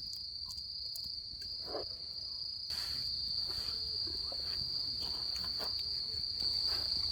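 Steady high-pitched chirring of crickets in a night-time insect chorus, with scattered small clicks and rustles that grow a little louder about a third of the way in.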